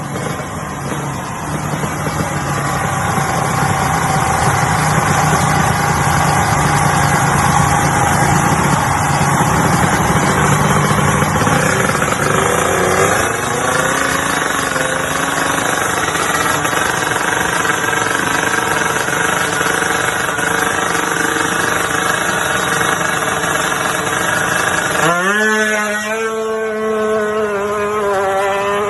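Drag-tuned motorcycle engine running loudly, its pitch climbing partway through. Near the end the sound changes abruptly to higher, wavering revs, as if from a blip of the throttle.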